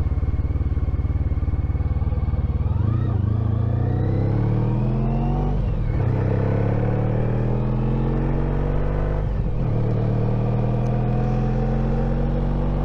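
Honda ST1300 Pan European's V4 engine accelerating through the gears, heard from on the bike. The revs climb from about three seconds in, drop at a gear change near six seconds and again near nine and a half seconds, then climb again.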